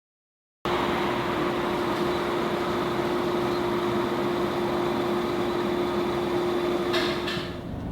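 2014 Nissan Altima running with a steady whine over its running noise: the driving noise that a failing bearing inside its CVT causes. It starts abruptly about a second in, and near the end a couple of clicks come before the whine stops.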